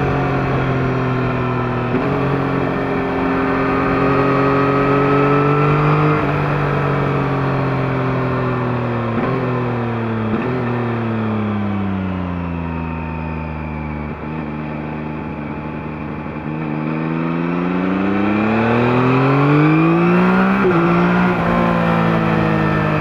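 2021 Yamaha MT-09's 890 cc inline three-cylinder engine through its stock exhaust, heard from a mic under the seat while riding. The engine note jumps up twice about nine and ten seconds in, sinks as the bike slows, then climbs steadily and drops sharply about twenty-one seconds in at an upshift.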